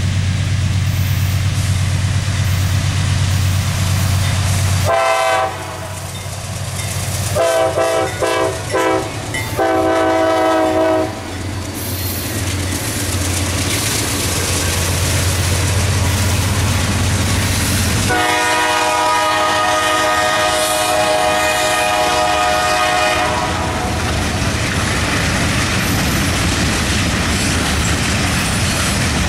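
CSX freight train led by GE Dash 8 diesel locomotives passing close by. Over a steady diesel rumble, the locomotive horn sounds a short blast about five seconds in, then a quick rhythmic string of blasts, then one long blast of about five seconds. After that the freight cars roll past with a clickety-clack.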